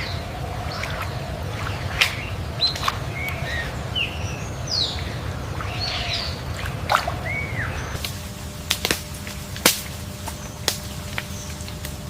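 Birds calling, short chirps and curved whistled notes, with scattered sharp clicks over a steady low rumble of outdoor ambience. About eight seconds in the bird calls stop and the background changes to a different steady hum, with the clicks carrying on.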